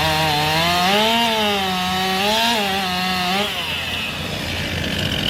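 Two-stroke racing chainsaw at full throttle cutting through a log, its engine pitch dipping and rising as the chain loads up in the wood, over loud chain-cutting noise. About three and a half seconds in, the engine note fades as the cut ends.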